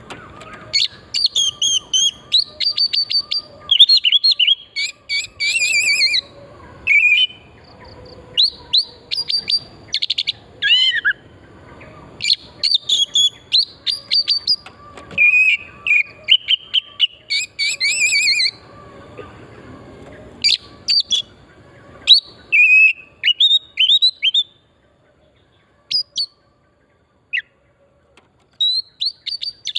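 Oriental magpie-robin (kacer) in full, vigorous song: rapid runs of clear whistles, sweeping notes and chattering trills with short breaks between phrases. Near the end the song thins to a few single notes.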